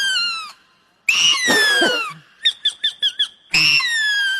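A child's voice imitating an animal call: a run of quick high chirps and three long, high, falling shrieks.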